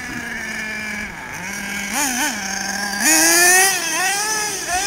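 Redcat Avalanche XP RC monster truck's small nitro engine running at a steady speed, blipped twice about two seconds in. It then revs up louder about three seconds in and eases off near the end.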